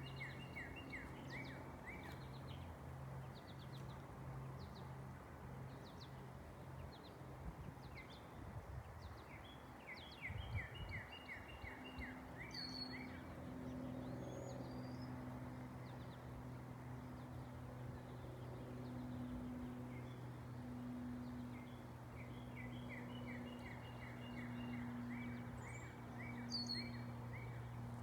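Twin-engine Cessna 414 passing overhead: a faint low propeller drone that throbs slowly and regularly, louder in the second half. Birds chirp over it in quick runs of falling notes, with a sharper call twice.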